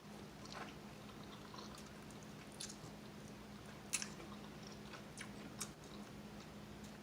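Close-miked chewing of crispy fried chicken wings: soft, scattered crunches and mouth clicks, with one sharper crunch about four seconds in. A faint steady hum runs underneath.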